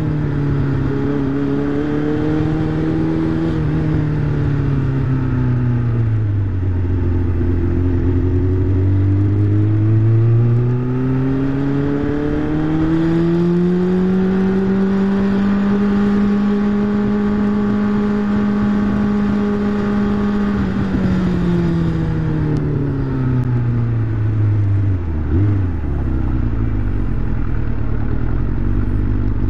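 Motorcycle engine under way, its note rising and falling with the throttle. It drops over the first several seconds, climbs again and holds a steady higher note for several seconds in the middle, then falls away to a low, slow running note near the end.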